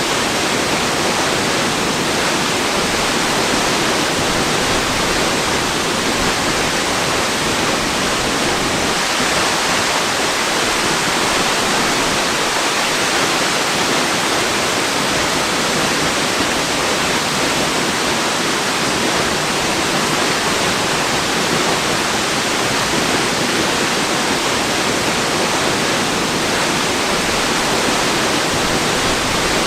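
Waterfall: a steady, unchanging rush of falling water, hissy and dense, with little low rumble.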